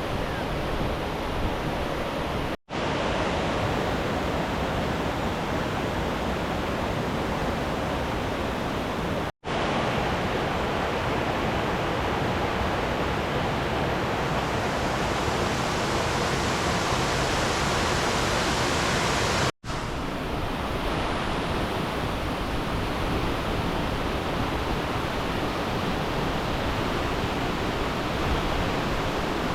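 Steady rush of flowing river water, broken three times by a split-second dropout where the sound cuts out completely.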